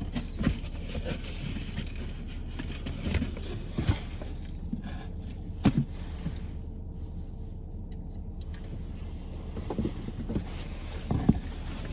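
Packets being taken out of a cardboard box: scattered knocks, bumps and rustles of cardboard and packaging, over a steady low hum.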